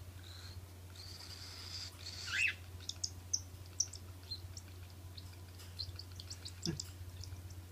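Baby cockatiel's begging calls while being hand-fed. First a thin, high, held note, then a falling call, then a run of short, high chirps.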